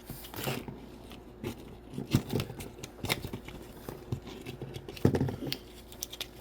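Rustling and crinkling of small packaging being opened and handled, with scattered light clicks and taps of small plastic pieces; two louder taps come about two and five seconds in.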